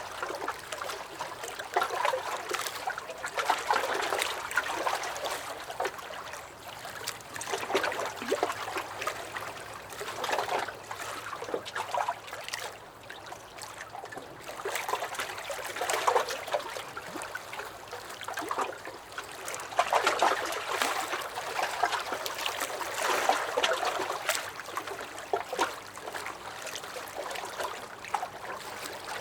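Small lake waves lapping and sloshing against a dock, in uneven swells every couple of seconds.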